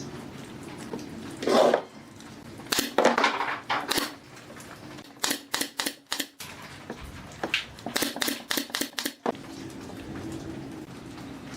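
Woodworking shop work: a run of sharp knocks and clicks, some in quick clusters, over a steady low hum.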